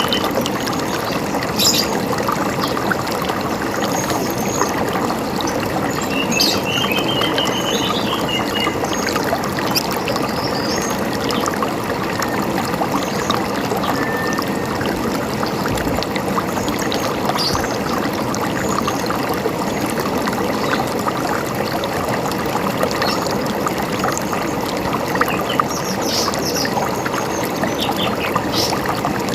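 River water running steadily, with small birds calling over it now and then: a short trill of rapid repeated notes about six seconds in, and brief high chirps scattered through, with a cluster near the end.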